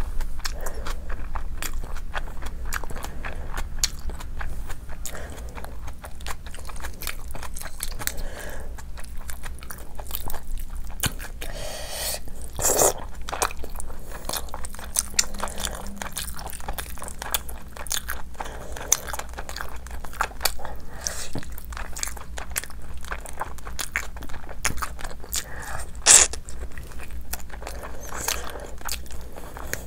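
A person chewing and biting into curried mutton and chicken eaten by hand with rice: a steady run of small clicks and crunches. There is a louder crunch about halfway and a sharp crack near the end.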